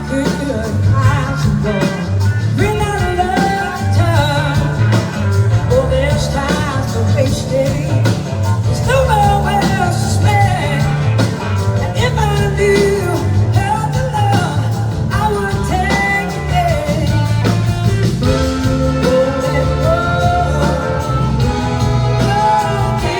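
Blues-rock band playing a song live, with singing over a steady low rhythm of drums and bass and gliding melody lines.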